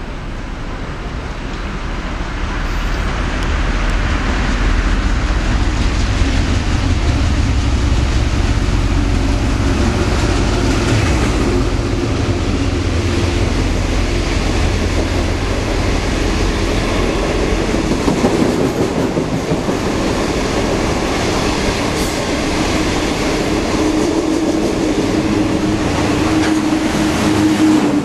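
Intercity passenger train running through the station without stopping: the locomotive's approach builds over the first few seconds, then a long run of passenger coaches rumbles and clatters past at speed, wheels on rail.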